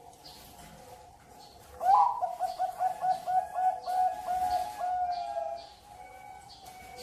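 Zebra dove (perkutut) cooing: a loud opening note about two seconds in, then a quick run of a dozen or so short repeated notes, about four a second, stopping a little before six seconds. Other birds chirp faintly behind it.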